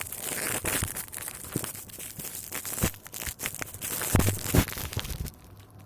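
Crunching and scraping of snow and ice being worked by hand, with irregular knocks and two dull thumps a little past four seconds in.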